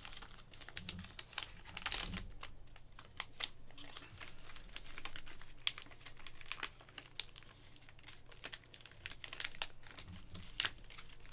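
Plastic crinkling with irregular light clicks and taps as trading cards and their plastic holders are handled.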